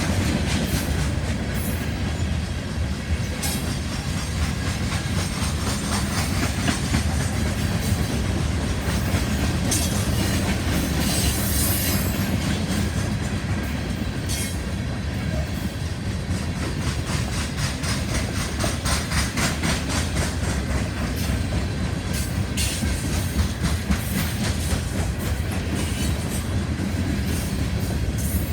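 Loaded coal train rolling past: a steady heavy rumble with a continuous clickety-clack of wheels over rail joints, and a brief high wheel squeal about eleven seconds in.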